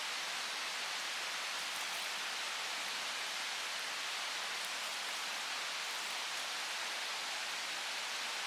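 Steady, even hiss of water, with no single drops or splashes standing out.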